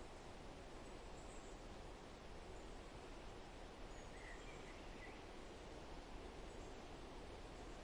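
Faint forest ambience: a steady hiss with a few soft, brief bird chirps, a small cluster of them about four seconds in.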